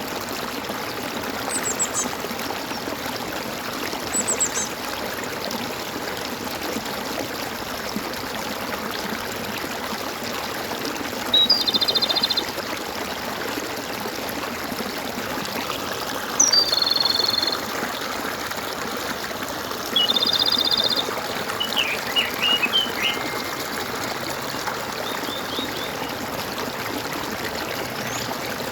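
Stream gurgling steadily, with short animal calls over it: a couple of high chirps near the start, then three brief rapid trilled calls (the loudest sounds) and a few quick chirps later on. The calls are most likely birds singing.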